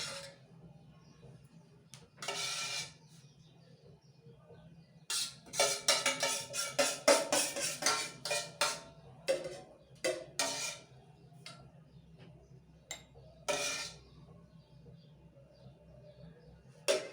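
Kitchen utensils knocking and scraping: a spoon tapping against a bowl and glass cups, with a quick run of taps, about four or five a second, in the middle.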